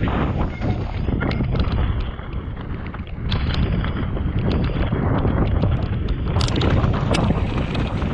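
Tractor engine running with a steady low rumble, wind buffeting the microphone, and scattered sharp clicks and knocks.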